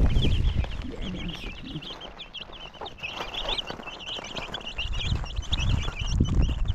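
Many small birds or chicks chirping in quick, continuous peeps, over low rumbling and occasional thumps.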